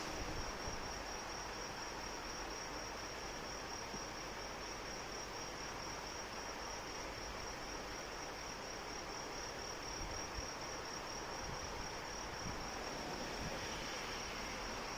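Steady rain with insects trilling over it: one continuous, high, finely pulsing trill that does not let up.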